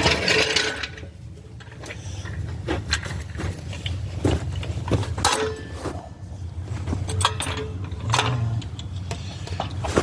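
Scattered metal clanks and knocks from work on the car with a jack and tools, over a steady low hum; a louder, noisier rattle comes in the first second.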